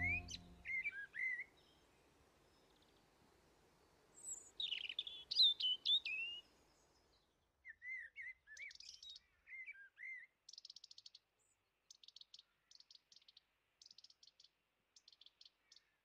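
Songbirds chirping and whistling in short up-and-down phrases, then from about ten seconds in a series of short, fast, high trills repeated about once a second.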